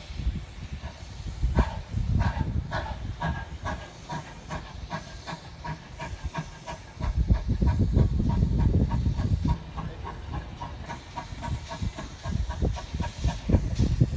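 Steam locomotive working, with hissing steam and a regular beat about three times a second over a low rumble.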